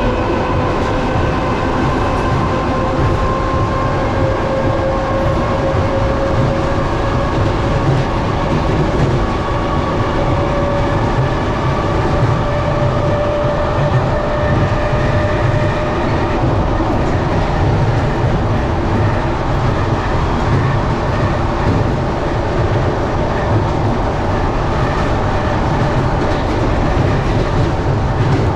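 Commuter train running on the rails, heard from inside the carriage: a steady rumble of wheels on track. Over it runs a whine that slowly rises in pitch through the first half and then fades out about halfway through.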